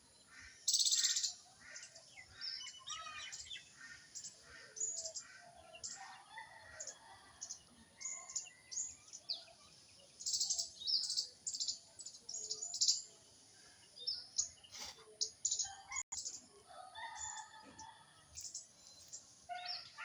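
Birds chirping over and over in many short, high chirps, with lower calls mixed among them.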